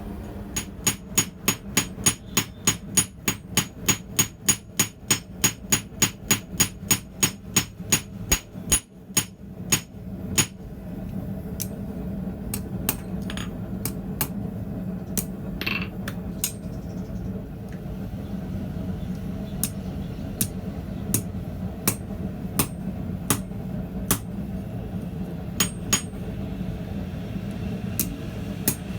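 Hand hammer striking a 3/8 inch steel rod on a small anvil: a fast, even run of blows, about three a second, for the first ten seconds or so, then slower, spaced-out blows, over a steady low hum.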